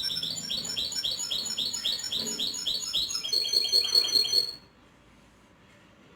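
Canary singing: a run of repeated falling notes, about five a second, then a fast high trill that ends about four and a half seconds in.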